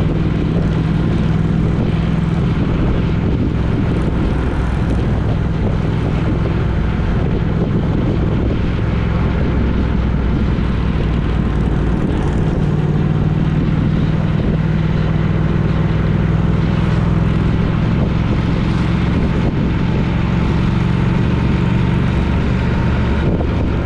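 Steady, loud engine drone of a moving vehicle, with a constant low hum and a noisy rush over it.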